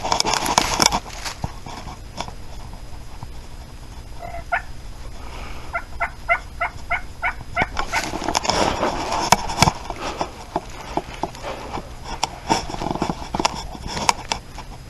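Turkey calling: a run of about nine short, evenly spaced yelps near the middle, with louder rattling bursts before and after that sound like gobbling.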